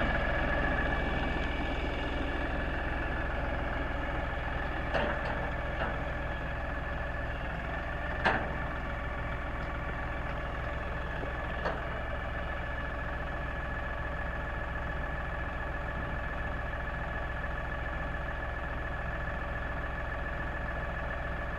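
LS compact tractor's diesel engine running steadily, with a constant high whine over it. Three sharp knocks come at intervals, the loudest about eight seconds in.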